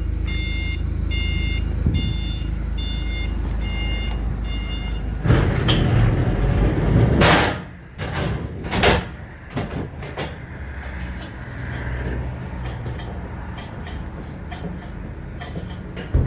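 A reversing alarm beeps about twice a second over a running engine. About five seconds in, the beeping stops and a loud rush of noise lasts a couple of seconds, followed by another short burst and then scattered knocks and clanks of freight handling.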